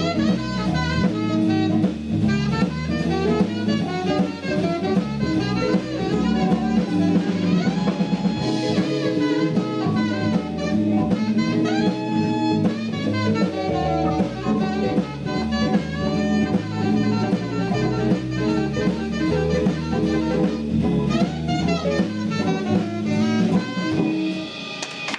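Small jazz combo playing a swing number live: saxophone and trombone over electric guitar, keyboard, bass guitar and a drum kit keeping a steady swing beat.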